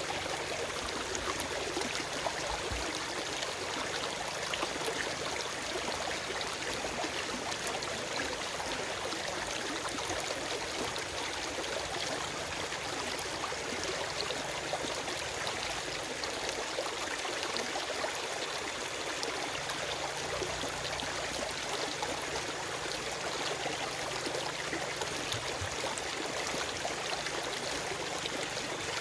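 Small forest stream running over rocks: a steady rush of water with fine splashing and trickling, and no birdsong.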